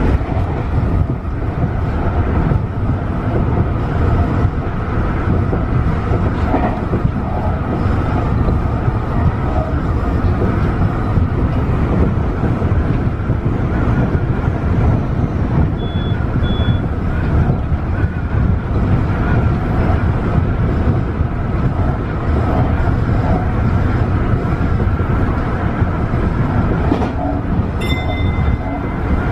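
Tobu 50090-series electric train running at speed, heard from inside the car: a steady rumble of wheels on rails with a faint motor hum. Two short high beeps come about halfway through, and a brief tone sounds near the end.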